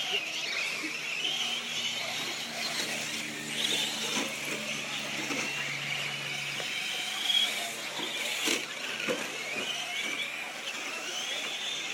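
Traxxas short course RC trucks racing: their motors and drivetrains whine, the pitch rising and falling with throttle as they go around the track. A couple of short knocks sound about two-thirds of the way in.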